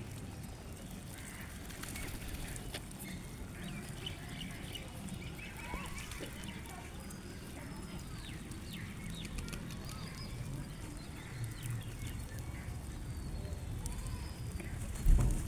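A flock of birds calling, with many short chirps overlapping, over a low rumble. A low bump comes just before the end.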